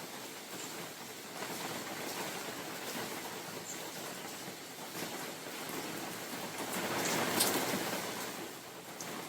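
Spring rain falling in a forest, a steady hiss with scattered sharp drip ticks, and a gust of wind through the trees that swells and fades about seven seconds in.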